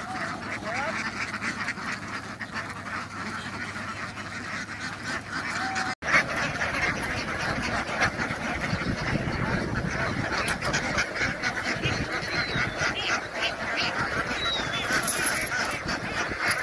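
A flock of ducks calling all at once, a dense, continuous chatter of many overlapping quacks.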